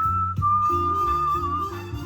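A whistled tune over a backing music track. A clear whistle slides up into one long held note with a slight wavering, then drops away near the end, over steady bass notes and a beat.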